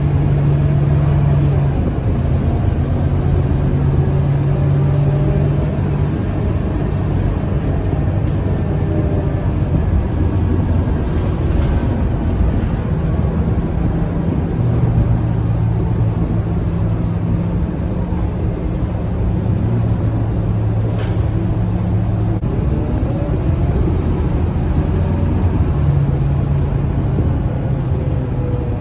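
Scania K230UB city bus on the move: a steady low engine drone over road rumble, its pitch shifting up and down a few times as the bus changes speed.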